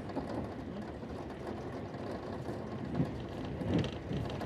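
Steady rumble of a passenger train running at speed, heard from inside the carriage: wheels on the rails and the car's running noise.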